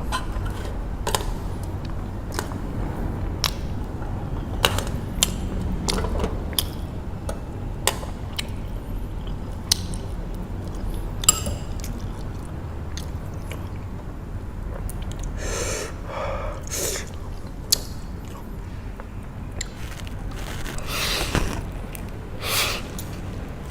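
A person eating spicy noodles close to the microphone: chewing with many small sharp mouth and utensil clicks, and a few longer breathy slurps past the middle and near the end. A steady low rumble runs underneath.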